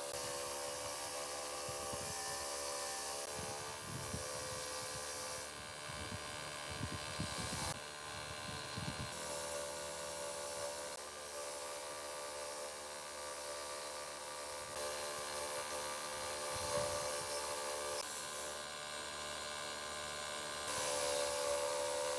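Motor-driven workshop tool running steadily with rubbing and scraping. The sound changes abruptly several times, in short cuts a few seconds long.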